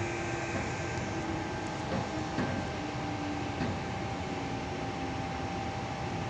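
Inside the cabin of a Tangara electric train slowing into a station: steady running rumble and hiss, with a motor whine that falls in pitch in steps as the train brakes, a steady higher tone above it, and a couple of light knocks about two and a half and three and a half seconds in.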